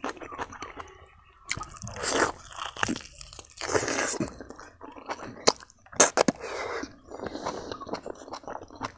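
Close-up chewing and biting of smoked pork with rice, with wet, crunchy mouth sounds and a few sharp smacking clicks about six seconds in.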